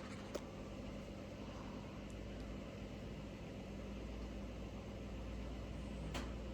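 Faint, steady hum and low rumble of a 1970s Wing Tat steel-bladed ceiling fan, still coasting through a long spin-down on free-running bearings. Two light clicks, one about half a second in and one near the end.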